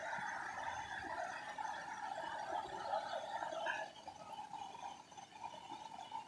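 Waterfall water rushing, a steady hiss that becomes quieter about four seconds in.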